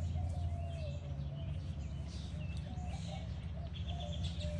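Wild birds chirping and calling, with short high chirps scattered through and a thin wavering call held lower, over a steady low rumble.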